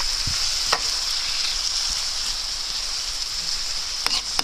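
Chopped carrot, beetroot and onion with tomato paste sizzling steadily in a frying pan, with a couple of short clicks from the utensil stirring them.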